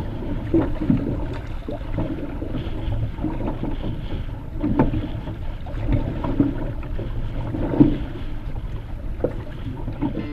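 Water slapping and splashing against a canoe on choppy water, with wind buffeting the microphone. Irregular splashes and knocks come every second or so over a steady low rumble.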